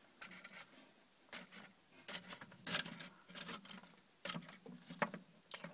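Faint, irregular rustling and light tapping, the sound of small plastic toy figurines being handled and moved about on a surface.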